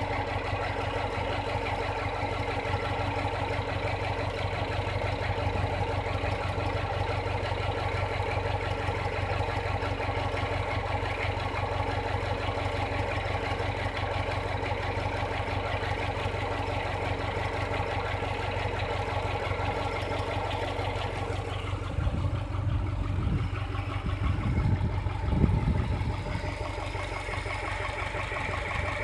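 Subaru EJ253 2.5-litre flat-four engine idling steadily, with the knock that the owner is recording. Near the end come a few louder, uneven low thumps.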